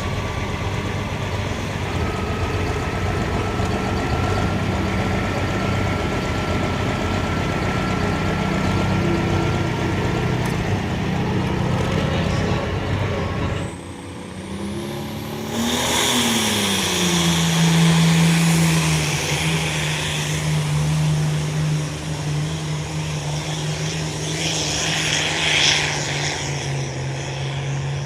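Heavy vehicle engines running. About halfway through there is an abrupt change to a single engine that revs up, drops back and then holds a steady speed.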